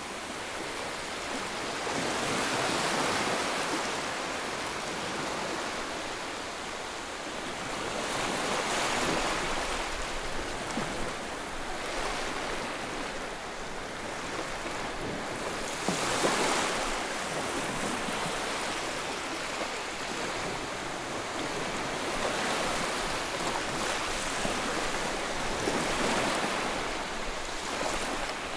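Ocean waves breaking and washing on a shore, a steady hiss of surf that swells with each wave every few seconds.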